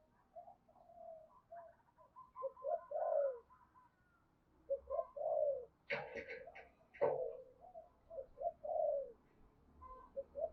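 Spotted doves cooing, a run of short coo notes, many sliding down in pitch, with more than one bird overlapping. A few short sharp noises break in about six and seven seconds in.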